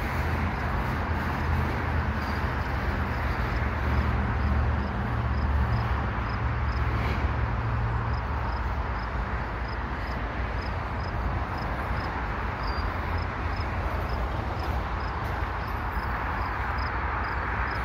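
Double-stack container freight train rolling past: a steady rumble and rush of the well cars' wheels on the rails, the low rumble easing a little about halfway through. A faint high ticking repeats about twice a second.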